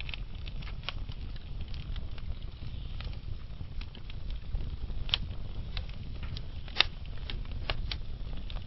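Wood fire burning low with scattered crackles and pops over a steady low rumble, the loudest pops about five and seven seconds in.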